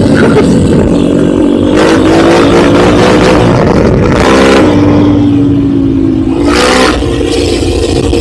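Enduro motorcycle engine running under load while riding off-road, its revs rising and falling with the throttle, with several short surges of harder revving.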